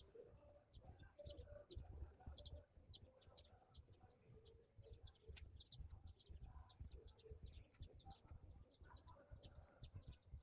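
Faint birdsong: many short high chirps mixed with the repeated low cooing of a dove, over a low rumble. A single sharp click sounds about five seconds in.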